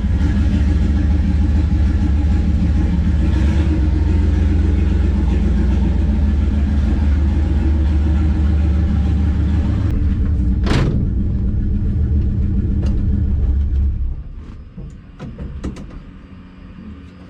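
Turbocharged 360 Magnum V8 of a 1969 Plymouth Valiant, on fresh cylinder heads, idling with a steady low rumble; a single sharp click about ten seconds in, and the engine sound stops about fourteen seconds in.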